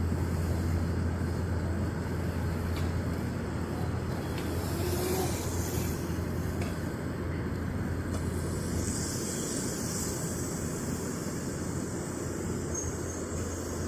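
Small motocross bike engine running steadily.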